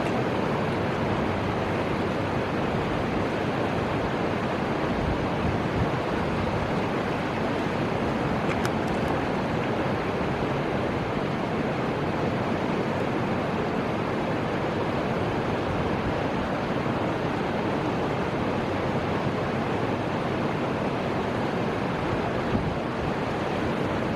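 Steady, even rushing of the Fuji River's flowing water.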